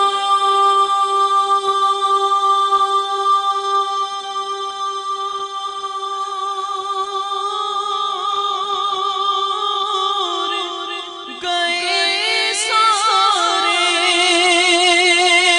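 Naat singing without words: a long, steady held note, then a louder, wavering ornamented vocal line from about eleven seconds in.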